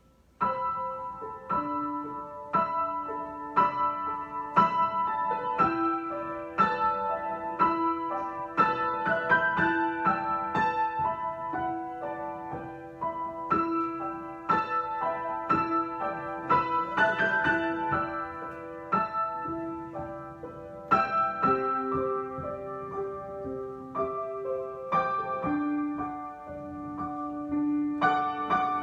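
Solo piano improvisation: struck notes and chords that ring and fade, starting about half a second in, over a held lower note.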